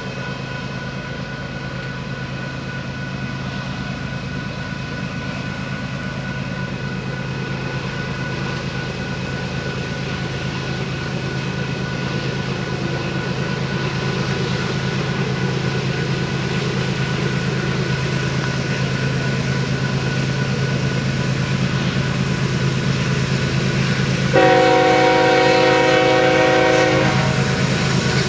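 Diesel freight locomotives working up the grade toward the crossing, a steady low engine rumble that grows louder as they approach. About three seconds before the end, one chord-like train horn blast lasts about two and a half seconds, the loudest sound.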